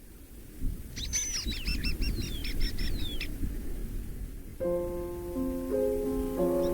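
A songbird sings one quick phrase of about ten repeated, downward-sliding notes about a second in, over a low steady rumble. Soft, sustained music with changing chords comes in about two-thirds of the way through.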